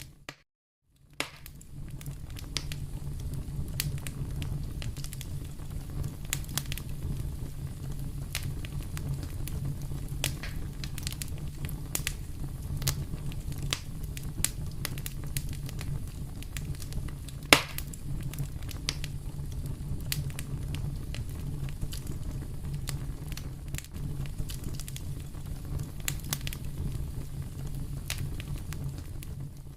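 Wood fire in a fireplace crackling and popping steadily over a low rumble of the flames, with one sharp louder pop about halfway through. The sound cuts out for under a second near the start.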